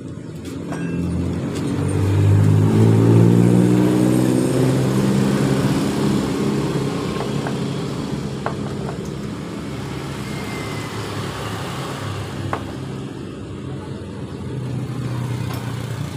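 A motor vehicle engine running, its revs rising over the first few seconds, then slowly dropping and settling to a steady run. A few light metallic clicks come near the middle.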